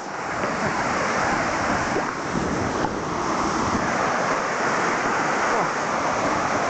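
Waterfall pouring, a steady rush of falling water close by.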